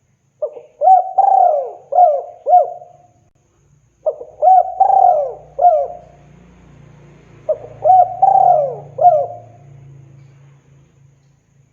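Spotted dove (tekukur) cooing: three phrases of four to six rising-and-falling coos each, a few seconds apart.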